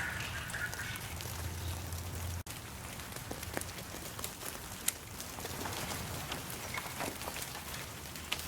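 A duck quacks in the first second. After an abrupt cut, rain patters steadily, with scattered sharp drips standing out from the hiss.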